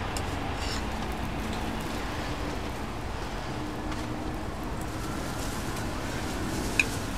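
Hotteok frying in shallow, low-temperature oil on a flat iron griddle: a steady, gentle sizzle, with one light click near the end.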